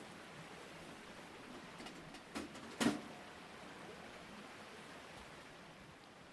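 Two short knocks about half a second apart near the middle, the second louder with a brief ring, over a steady faint hiss.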